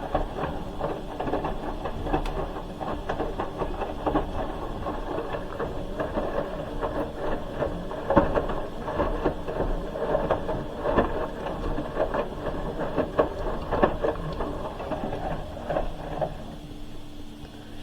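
Hoover H-Wash 300 Plus washing machine mid-cycle, its drum turning and tumbling the wet load with an uneven churning sound. The drum stops near the end, leaving a steady low hum.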